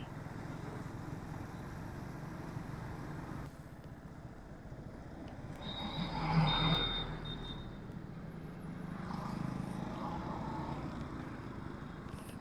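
Motorbike riding along a town road: a steady low engine hum and road noise. A louder swell with a thin high whine comes about six seconds in, and a milder one near ten seconds.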